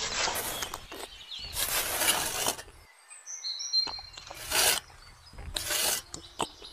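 A small metal trowel scraping and scooping wet cement from a steel plate and pressing it onto miniature bricks, in four short scraping strokes. A few faint bird chirps sound about three seconds in.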